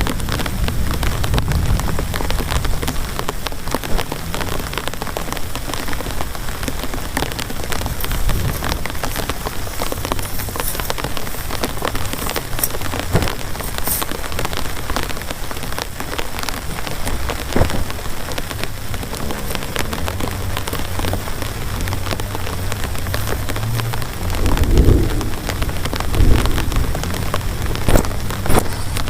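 Heavy rain falling steadily, a dense patter of many separate drop strikes, with a couple of deeper low rumbles near the end.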